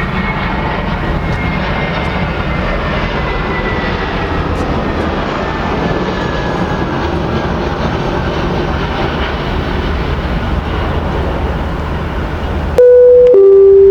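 Airplane engines running loud as an aircraft passes, a steady rumble with a whine that slowly falls in pitch. Near the end a much louder, close two-note tone sounds, a higher note then a lower one.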